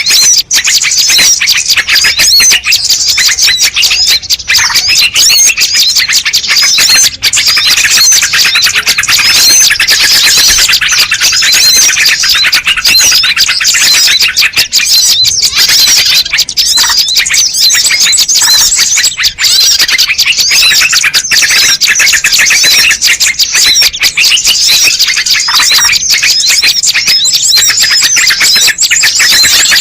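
Small birds chirping densely and without pause: rapid, high-pitched chirps and twitters overlapping one another, from a bird-lure (pikat) recording.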